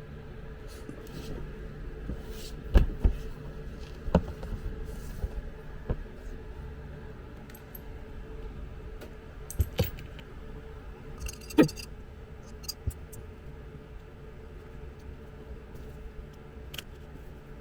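Scattered light clicks and knocks of small objects being handled, over a steady low hum.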